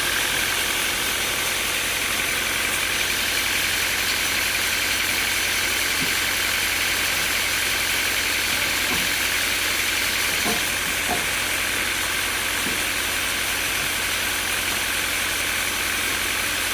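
Sawmill engine running steadily at an even level, with no change in load.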